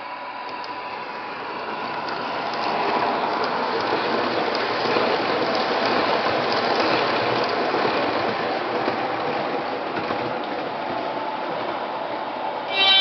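MTH O-gauge model subway trains running on the layout: a steady rattle and clatter of wheels on track and motor gears that builds over the first few seconds, then a short horn blast from the model's sound system near the end.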